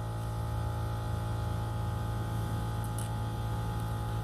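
Steady electrical mains hum, with a faint click about three seconds in.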